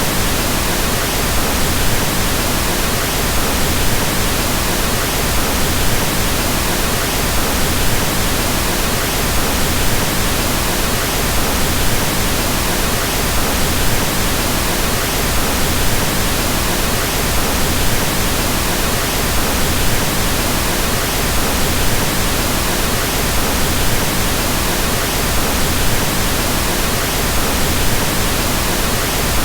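Steady, unchanging pink noise: an even hiss across all pitches, somewhat heavier in the low end, like soft rain or wind.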